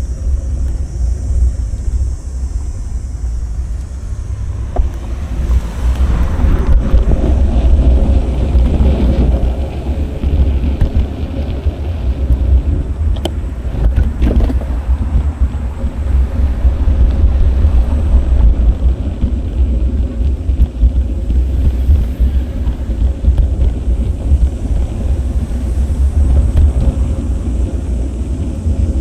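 Steady low rumble of wind buffeting an action camera's microphone while riding a bicycle along city streets, mixed with road noise. The sound swells for a few seconds about a quarter of the way in and again about halfway through.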